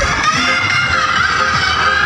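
Music played loud through a large sound system during a sound check: a wavering mid-pitched melody over light low beats, without the heavy bass.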